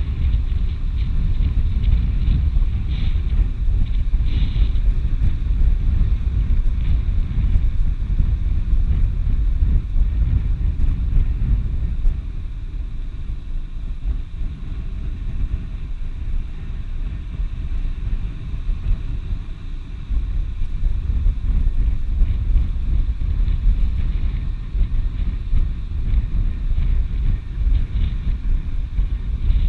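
Wind buffeting the microphone, a steady low rumble that eases a little about twelve seconds in and picks up again about eight seconds later.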